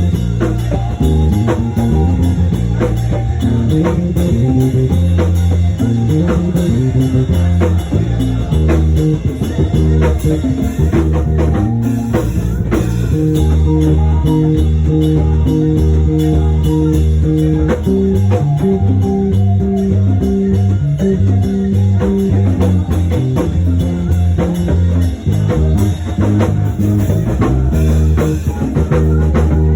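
Live band music with electric bass, guitar and drum kit playing a steady groove.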